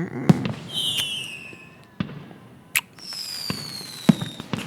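Fireworks going off: sharp bangs, two whistling rockets whose whistles slowly fall in pitch, and crackle between them.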